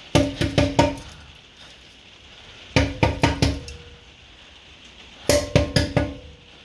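Old steel rear exhaust silencer box with collapsed internal baffles being knocked and handled: three quick runs of four or five hollow metallic clangs, each ringing briefly at the same pitch.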